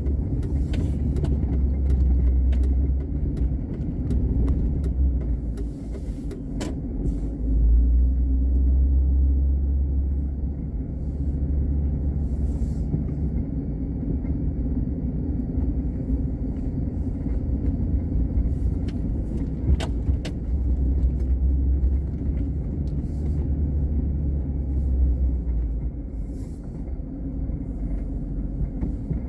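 Car driving along snow-covered streets: a steady low rumble of engine and road noise that swells and eases every few seconds, with a few faint clicks.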